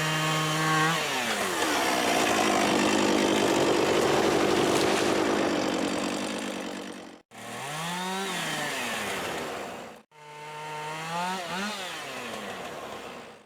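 Two-stroke chainsaw running at high revs, its pitch dropping about a second in as the chain bites into a log, then cutting steadily through the wood for several seconds. After two abrupt breaks the saw revs up and down in short swells.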